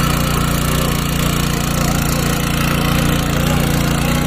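Mini power tiller's 170F single-cylinder four-stroke gasoline engine running at a steady speed.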